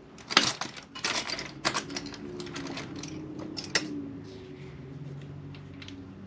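Sharp metal clicks and clatter as a socket is fitted to a Snap-on cordless electric ratchet and set on a bolt, followed by the ratchet's small motor running with a steady low hum.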